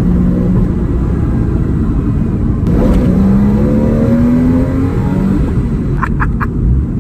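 Porsche Boxster S 3.2-litre flat-six engine pulling under acceleration. After a brief break about three seconds in, the engine pitch climbs steadily.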